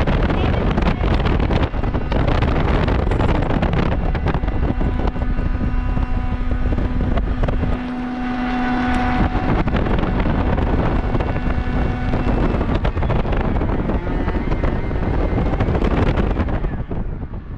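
A motor-driven blower run continuously to make the tornado wind: loud rushing air with a steady motor hum and whine. It cuts off right at the end.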